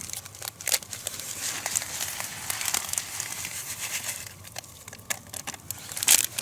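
Crinkling and tearing of a packet of dry soup mix as it is opened and emptied into the pot: a dense run of sharp crackles, loudest near the end.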